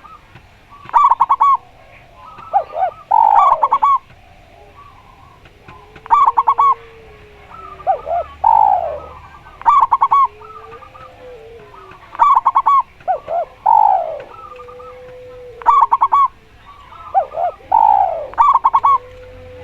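A spotted dove (tekukur) and a zebra dove (perkutut) cooing against each other. Quick stuttering clusters of high coos alternate with falling notes and lower drawn-out coos, and the phrases repeat every two to three seconds.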